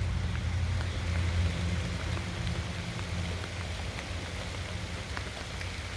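Rain falling steadily, an even hiss with scattered small drop ticks. A low rumble underneath fades away over the first few seconds.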